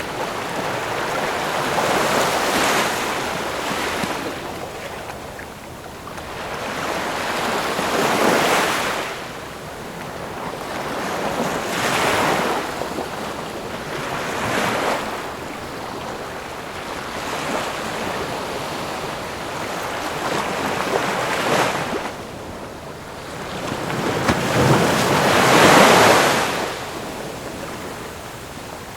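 Ocean waves breaking and washing onto a shore, swelling and falling every few seconds, the largest about three-quarters of the way through.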